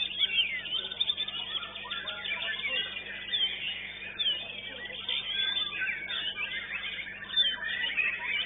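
Many caged white-rumped shamas singing at once: a dense, continuous tangle of overlapping high whistles, glides and trills, over a low steady hum.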